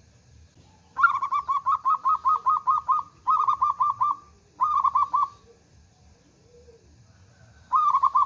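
Zebra dove (local perkutut) singing in a big voice: a quick run of about ten rolling coo notes, then two shorter bursts, and after a pause another phrase begins near the end.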